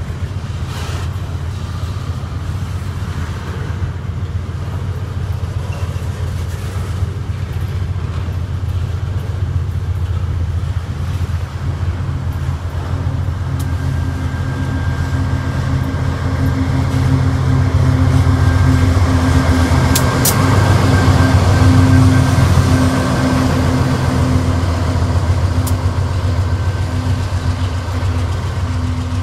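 Freight train of tank cars rolling past with a steady low rumble of wheels on rail. A diesel-electric locomotive placed mid-train comes by about halfway through, adding an engine hum and a steady whine that are loudest around two-thirds of the way, with a few sharp metallic clicks.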